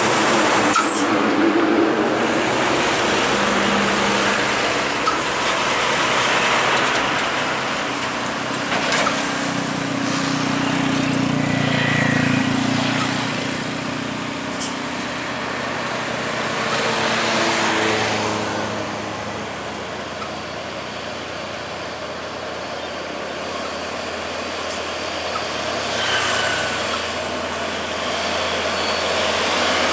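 Heavy trucks passing on a steep highway climb, their diesel engines running under load over steady tyre and road noise. One truck's engine hum grows louder from about a third of the way in and fades after the middle.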